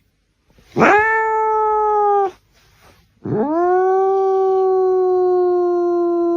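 A dog howling: two long howls, each swooping up at the start and then held, the second longer and slowly sinking in pitch.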